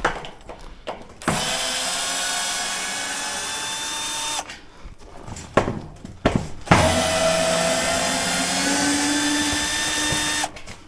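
Power drill running in two long bursts of about three and four seconds, each stopping abruptly, with a few knocks in the pause between them.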